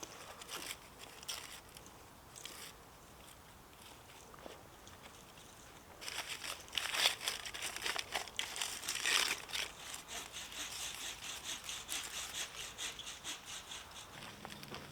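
Dry tinder and kindling (birch bark and twigs) rustling, crackling and scraping as they are handled. A few faint clicks at first, then from about halfway a busier run of scratchy rustling.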